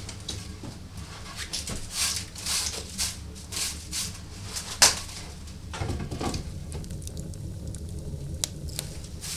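Irregular rustling and light clicks, with one sharp click about five seconds in, over a low steady hum.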